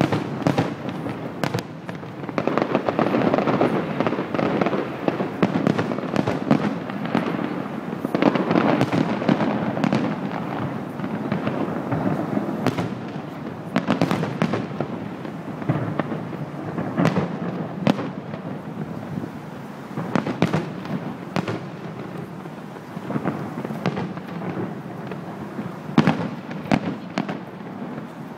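Aerial fireworks shells bursting in a display: an irregular run of sharp bangs, many close together, over a continuous rumble of overlapping bursts.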